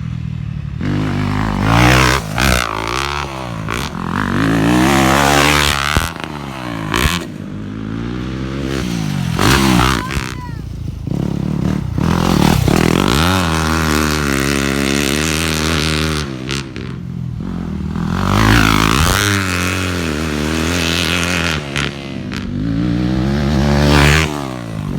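Dirt bike engines running hard, revving up and down over and over so the pitch rises and falls repeatedly.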